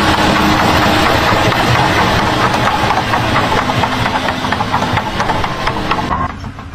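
A machine engine running, with a dense clatter of knocks and rattles over it; it cuts off about six seconds in.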